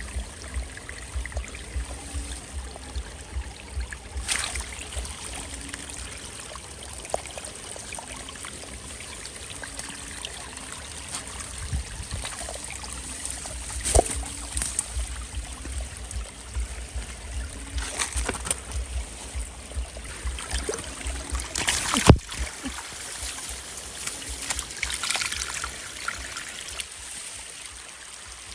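Water trickling and running steadily, with scattered knocks and splashes; one sharp knock about 22 seconds in is the loudest.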